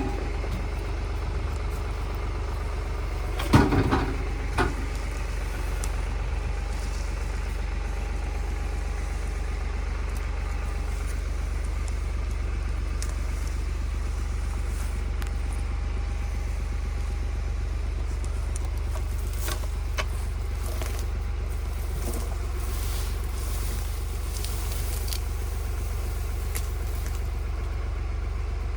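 Farm tractor engine running steadily, a constant low drone. About three and a half seconds in there is a short clatter, then a single knock a second later.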